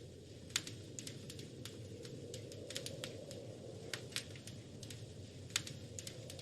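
Wood fire crackling in a fireplace: irregular sharp pops and snaps over a steady low rumble of burning, with two louder pops about half a second and five and a half seconds in.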